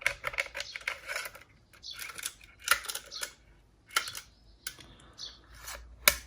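Handling noise on a workbench: irregular small clicks and scrapes of small plastic objects being picked up and moved, with one sharper click near the end.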